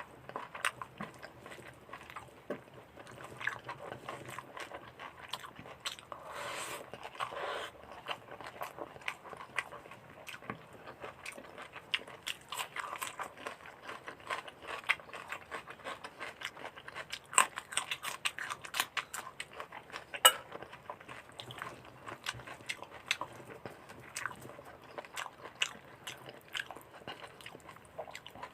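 A person eating with their mouth close to the microphone, chewing mutton curry and rice with irregular wet smacks, crunches and clicks. A sharp click comes about twenty seconds in.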